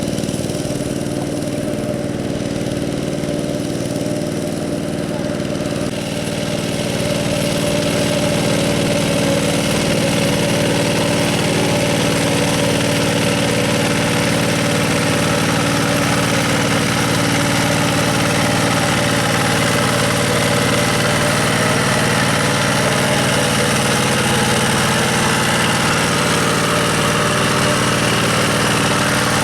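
Two-wheel hand tractor's single-cylinder diesel engine running steadily; it grows louder and brighter about six seconds in.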